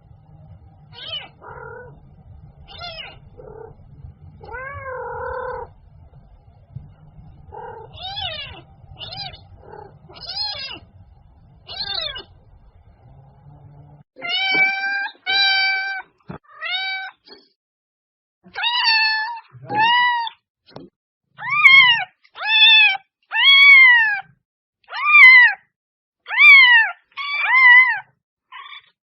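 Domestic cat meowing over and over. The first half has softer meows over a low hum, and from about halfway the meows are louder and clearer, coming about one a second.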